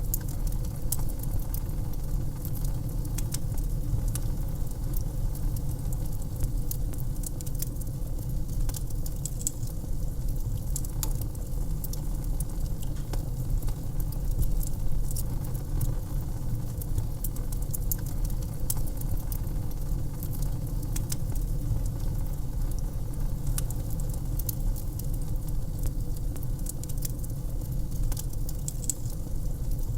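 Wood fire in a fireplace crackling: many irregular sharp pops and snaps over a steady low rumble of burning flames.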